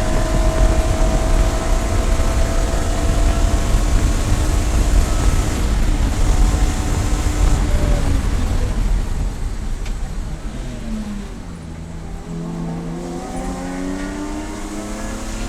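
Race car engine running hard at high revs with heavy low rumble. About nine seconds in, the engine note falls and the sound quietens, then the revs climb again in several rising sweeps near the end.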